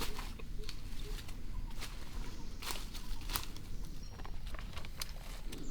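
Irregular crackling and rustling with scattered sharp clicks and snaps.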